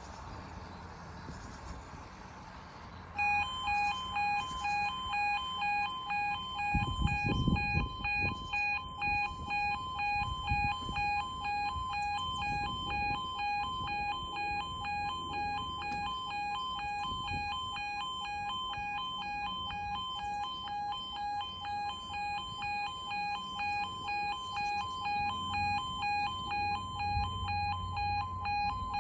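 UK level crossing warning alarm (yodalarm) starting abruptly about three seconds in and sounding steadily: two alternating tones pulsing rapidly, the signal that the barriers are about to come down for an approaching train.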